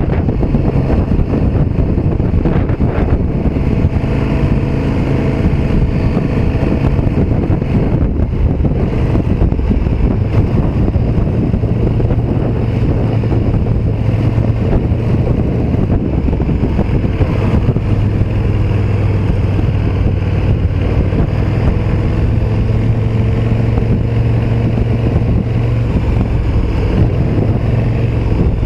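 KTM 1290 Super Duke R EVO's V-twin engine running steadily under way, with wind rushing over the microphone.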